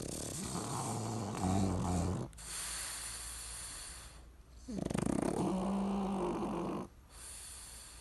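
A dog snoring in its sleep: two long rattling snores, about two seconds each, each followed by a hissing breath.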